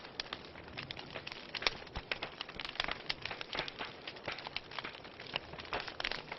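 Wood fire crackling in a fireplace: frequent sharp pops and snaps from the burning logs, several a second, over a steady hiss.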